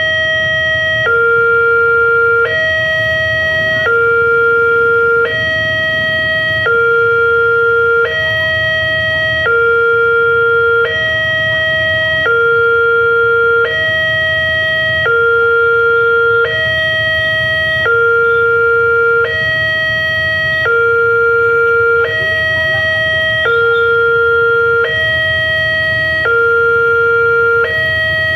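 Railway level-crossing warning alarm sounding a steady electronic two-tone, with a lower and a higher note alternating about every one and a half seconds. It signals that a train is approaching and the crossing barriers are down.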